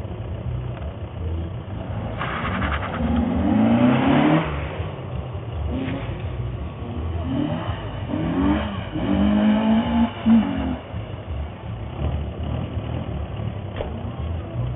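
A small hatchback's engine revving hard and easing off again and again as the car is driven fast round a tight tyre-marked course, its pitch climbing under acceleration and dropping on each lift.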